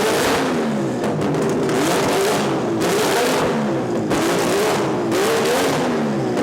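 Car engine revving again and again, its pitch rising and falling over and over.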